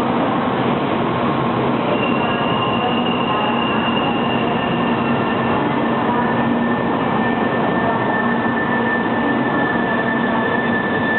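Shinkansen 700 series bullet train pulling into a station platform: a steady, loud rush of running and rolling noise with thin high tones held over it, one fading out about five seconds in and another coming in about six seconds in.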